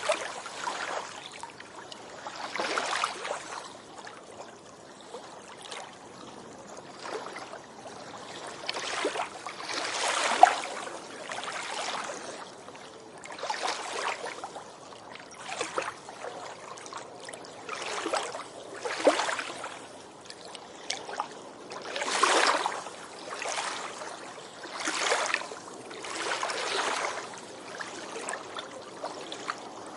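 Small sea waves washing onto a beach, each wave a rush of surf that swells and fades every few seconds at an uneven pace, with one brief sharp splash about ten seconds in.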